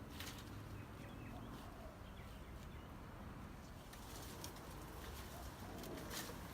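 Faint outdoor ambience with a few short bird calls.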